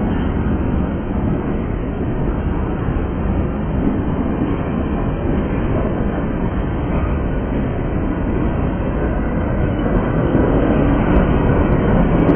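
Freight train passing close by: the steady noise of steel wheels rolling on the rails under a string of boxcars, tank cars and open-top gondolas, growing a little louder about ten seconds in.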